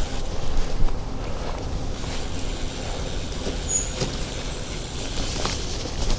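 Steady low rumble of riding along on a bicycle, with a few light clicks and a short high squeak a little past halfway.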